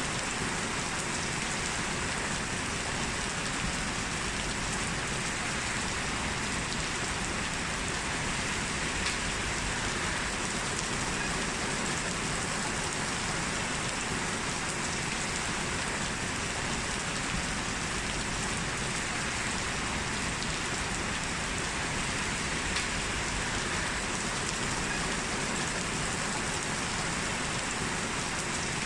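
Heavy rain falling steadily: an even, unbroken hiss of rain on hard surfaces.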